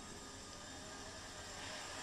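Eachine E119 micro RC helicopter in flight: a faint, steady whine of its small electric motors and rotors, over a hiss of background noise.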